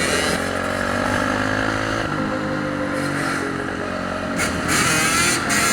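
Dirt bike engines running and revving, their pitch rising and falling, with more than one bike heard at once.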